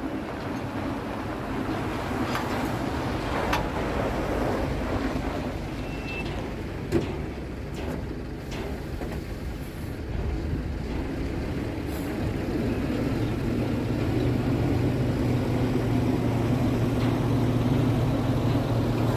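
Scania P380 lift-dumper truck's diesel engine running, growing louder and heavier about two-thirds of the way through as it takes on more load. A single sharp knock sounds about seven seconds in.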